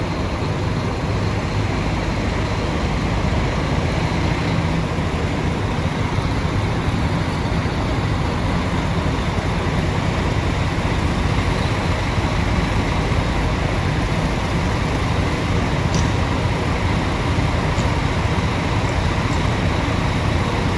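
Scania K440 bus diesel engine running steadily, mixed with road traffic noise.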